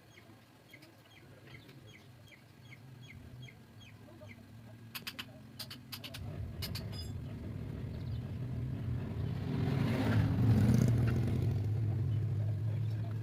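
A motor engine rumbles, swelling over several seconds to its loudest about ten seconds in, then easing off. Before it, small birds chirp about twice a second and a few sharp clinks sound.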